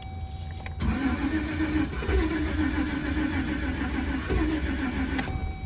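Chevy Express van's engine being cranked by the starter, turning over in a rhythmic whirr without catching: a crank-but-no-start. The cranking begins about a second in and stops near the end.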